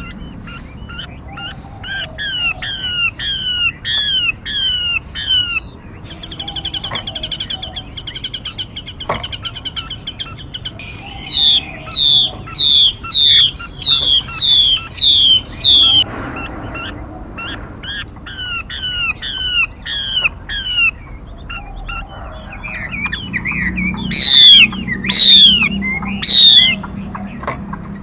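Recorded calls of a female 'mi' bird, the kind played as a trapping and training lure. Runs of quick down-slurred whistled notes, a fast trill, then a louder run of sweeping notes, with three loudest calls near the end.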